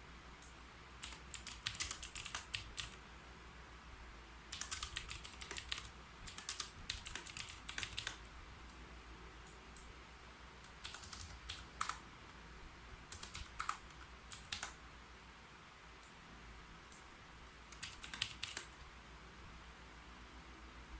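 Typing on a computer keyboard in short bursts of rapid keystrokes with pauses between them, about half a dozen runs in all.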